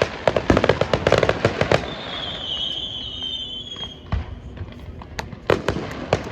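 Fireworks display: a rapid run of sharp bangs and crackles, then a high whistle lasting about two seconds, then scattered bangs that thicken again near the end.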